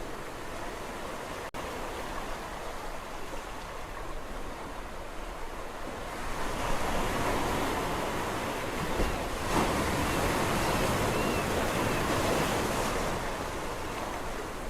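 Sea waves washing on a shore: a steady wash of surf, with a bigger wave building about six seconds in and rushing in for several seconds before it subsides. A split-second gap in the sound comes about a second and a half in.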